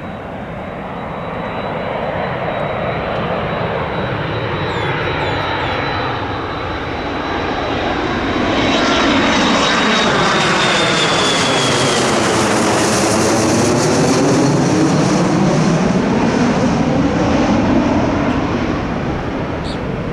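Jet airliner passing by at low altitude, its engines running with a steady high whine; the sound swells about eight seconds in, stays at its loudest for some ten seconds, then begins to fade near the end.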